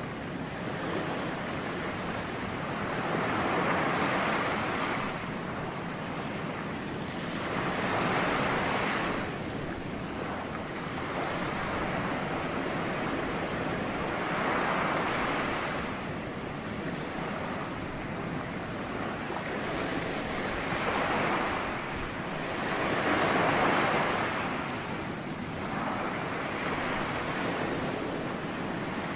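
Ocean waves breaking as surf, a continuous wash that swells and fades every few seconds as each wave comes in.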